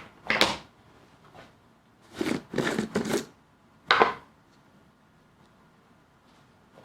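A few short scraping or rustling handling noises: one early, a quick cluster about two to three seconds in, and one more about four seconds in, with quiet room tone between.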